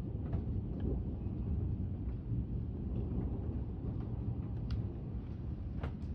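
Gusty thunderstorm wind, a steady low rumble, with a few faint sharp ticks scattered through it.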